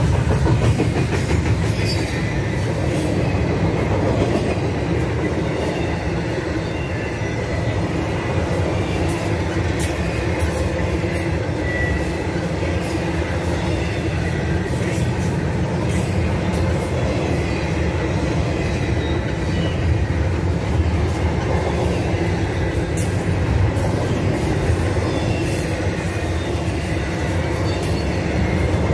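Double-stack intermodal freight cars rolling past at speed: a steady heavy rumble of steel wheels on rail, with scattered clicks and a faint high wheel squeal now and then.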